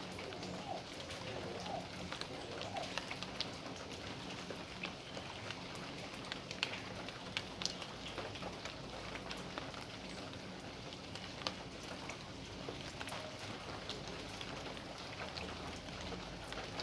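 Steady rain falling on a backyard, with many individual drops striking surfaces as sharp ticks over the even hiss of the rain.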